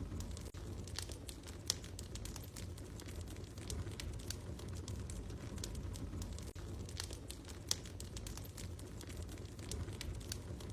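Wood fire crackling in a fireplace: irregular sharp pops and snaps over a steady low rumble, with two louder pops, one about two seconds in and one near the end.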